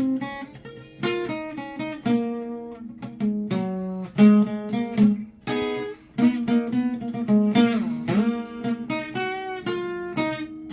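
Acoustic guitar strumming chords, each strum ringing out before the next.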